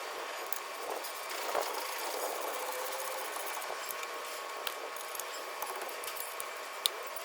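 Steady background hiss with scattered light clicks of hand tools being handled, and one sharper click near the end.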